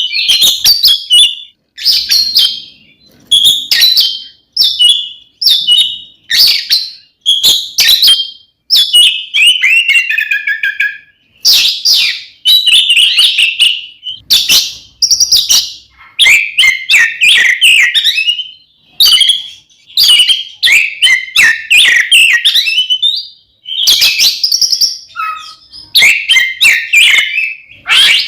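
Oriental magpie-robin (kacer) singing loudly in its fighting song: varied whistled and chattering phrases in quick succession, each about a second long, with short breaks between.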